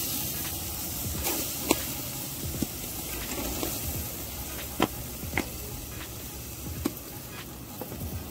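Jerk chicken sizzling on a wire grill rack over hot charcoal, a steady hiss broken by about half a dozen sharp pops and crackles.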